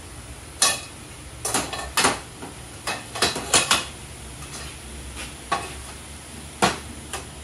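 Lengths of square metal tubing clanking and clinking against each other and the metal table as they are laid into a welding jig: about nine sharp knocks, several close together a little past three seconds.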